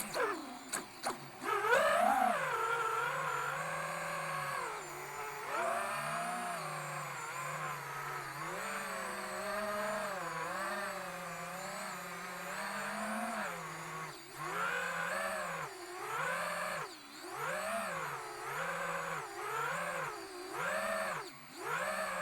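FPV quadcopter's Emax Eco II 2306 1900KV brushless motors whining, the pitch swooping up and down again and again with throttle, broken by a few sudden brief drops in the sound near the start and later on. The owner hears one motor stumbling and suspects ESC desync.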